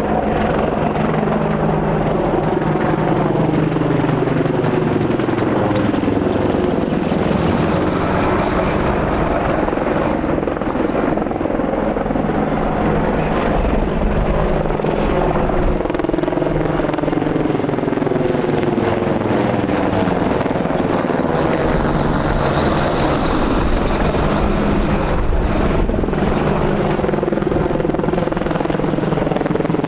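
Military helicopter rotors and turbine engines running loudly and steadily, the tone bending up and down as the aircraft move, with a high turbine whine that sweeps down about two-thirds of the way through.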